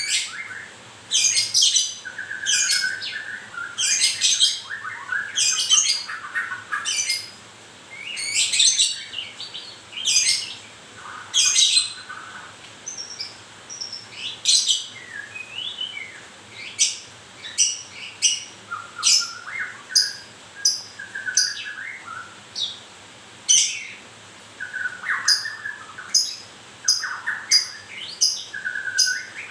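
White-rumped shama in moult, calling in a long run of short, sharp high chirps mixed with brief lower warbled phrases, a new note every half second to a second.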